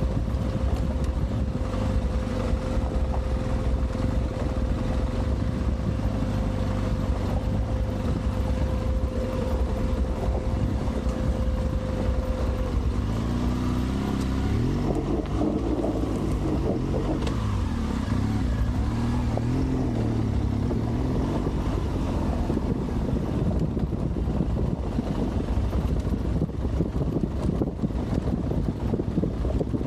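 Adventure motorcycle engine running under way over rough off-road ground, with wind noise over the microphone. From about halfway through, the engine revs rise and fall repeatedly as the throttle is worked.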